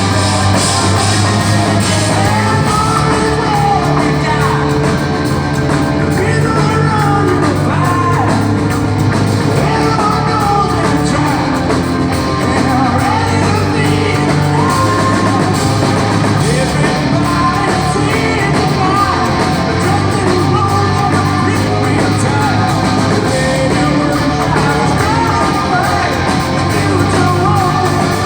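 A live hard rock band playing loudly, with a singer belting a melody over guitars and drums.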